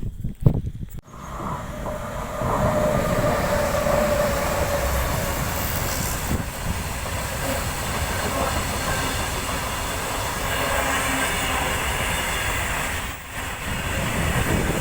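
A train running past on the railway track, its wheels rumbling steadily on the rails with a faint squeal. It starts about a second in.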